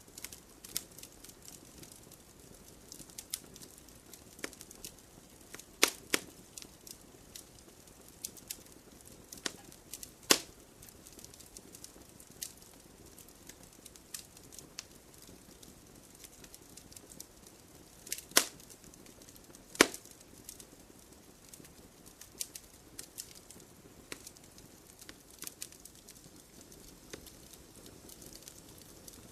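Campfire crackling: a soft steady hiss under frequent sharp snaps and pops, with a few much louder pops scattered through.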